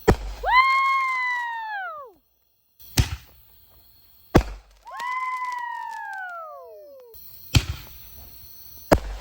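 Consumer firework cake firing shots: a series of sharp bangs, twice followed by a shrill whistle that rises briefly and then slides down in pitch over about two seconds.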